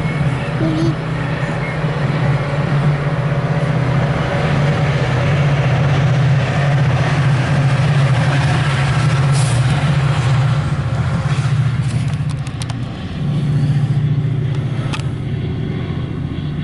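MARC commuter train passing, its diesel locomotive running with a steady low drone under rail noise, with a few sharp clicks about twelve seconds in.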